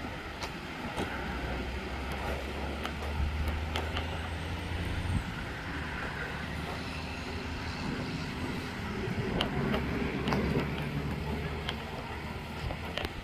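A vehicle engine running steadily with a low hum, with scattered light clicks and knocks.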